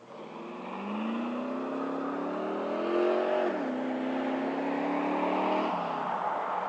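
1994 Ford SVT Lightning's 5.8-litre V8, through Bassani headers and exhaust with no catalytic converter, accelerating. The pitch rises for about three and a half seconds, then falls sharply as the automatic transmission upshifts. It holds, and falls again near the end.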